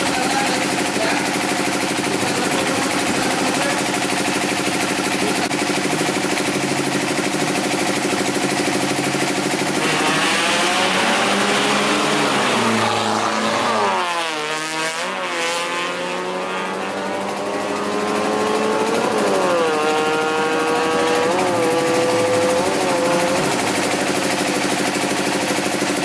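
Drag race car engines running steadily, then from about ten seconds in an engine revs and accelerates, its pitch climbing and dropping back several times.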